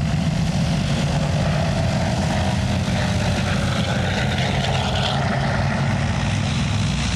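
A World War II B-24 Liberator's four Pratt & Whitney radial piston engines droning steadily in a flyby, with the engine note slowly falling in pitch as it passes.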